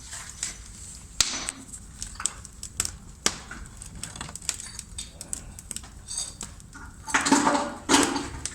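Bricklaying work on a fireplace: scattered sharp taps and knocks, then about a second of louder scraping and clattering near the end.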